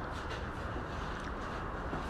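Steady low rumbling background noise with an even hiss above it.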